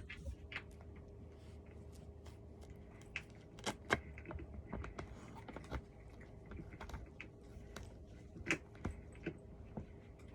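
Irregular light clicks and taps of cat tree parts and a hand tool being handled during assembly, over a faint steady hum.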